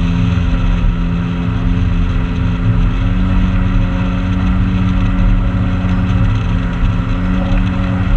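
Motorboat engine running steadily under way, a loud low drone whose pitch steps up slightly about three seconds in.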